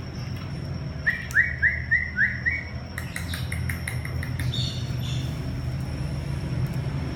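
Cockatiel whistling: a run of about five short rising notes, then a quicker string of short chirps, over a steady low hum.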